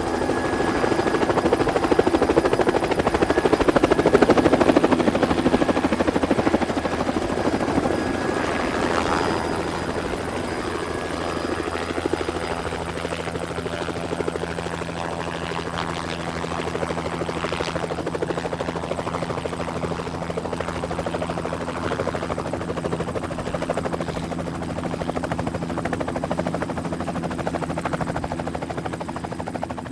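Helicopter in flight, its rotor beating steadily over a constant engine hum, laid onto the footage as a sound effect. It is loudest over the first several seconds, then settles to a steady level.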